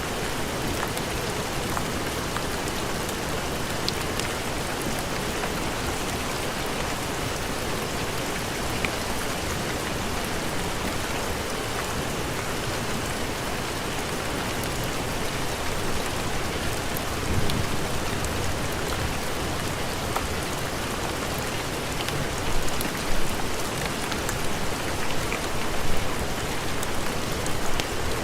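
Steady heavy rain with a dense, even hiss of falling drops. In the second half the level swells louder several times with a low rumble underneath.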